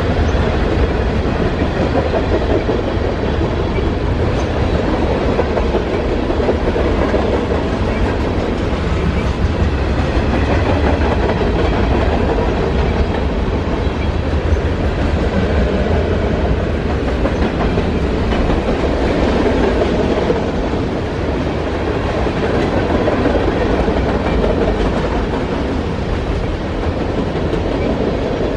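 Mixed freight cars of a manifest train rolling past close by: tank cars, covered hoppers and gondolas, their steel wheels making a steady rumble and rolling noise on the rails.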